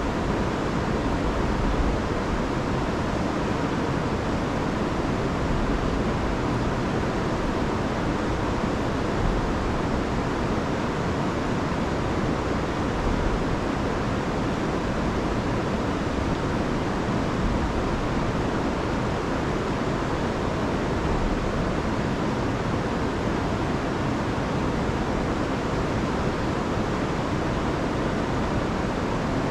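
Rain-swollen river and waterfall rushing in a steady, unbroken wash of water noise, heavy in the low end.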